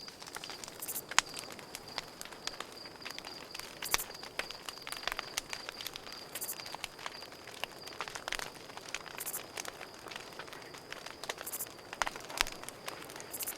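Campfire crackling and popping in irregular sharp snaps, over a steady high cricket trill, with a short, very high buzz recurring every two or three seconds.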